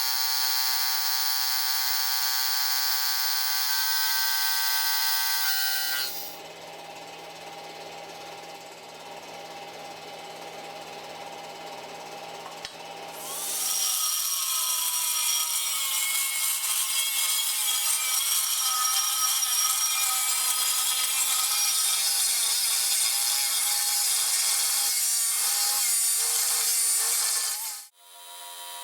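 Power tools running in a metalworking workshop. A steady, many-toned motor whine gives way after about six seconds to a quieter machine hum. At about fourteen seconds a louder, noisier tool takes over, working material until it cuts off abruptly near the end.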